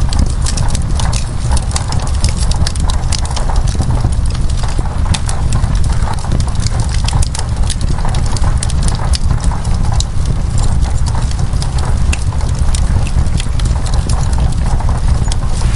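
Wood fire crackling in a fireplace: irregular sharp pops and snaps over a steady low rumble, mixed with rain on window glass.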